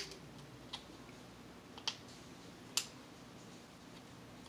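A person chewing with the mouth closed: four faint, sharp mouth clicks and smacks spread over about three seconds, over a low steady hum.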